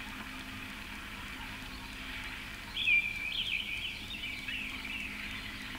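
Birds calling on a forest film soundtrack: a run of short, falling chirps about three seconds in, over a steady high hiss.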